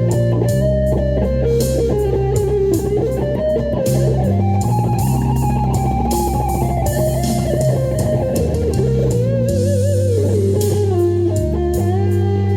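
An electric guitar plays a melodic lead line with pitch slides and vibrato over a backing track of bass and drums.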